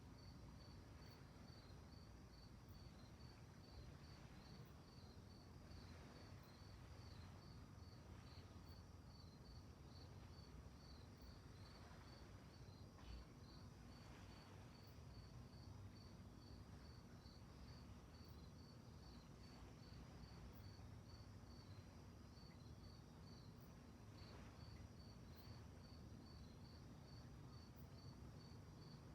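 Crickets chirping faintly and steadily at night, an even pulse of about two or three chirps a second, over a low steady rumble.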